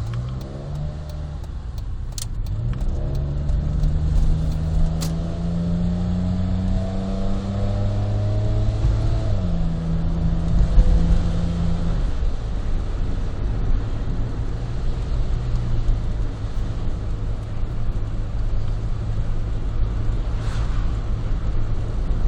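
Honda Life JB5's engine through a Rosso Modello GT-8 aftermarket exhaust, heard from inside the car with a window open, pulling under acceleration with its note rising for about nine seconds, then dropping and settling into a steady cruise. Two sharp clicks sound in the first few seconds.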